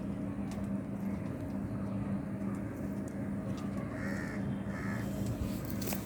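Two short bird calls, a little under a second apart, over a steady low hum.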